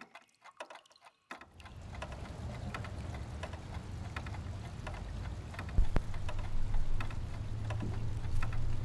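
About a second of near silence, then a steady low machinery hum of an industrial plant with scattered ticks and clicks; a sharp knock sounds about six seconds in.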